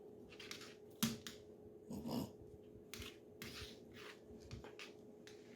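Quiet, scattered clicks and soft smacks of animals eating: a monkey picking cheese out of another pet's food.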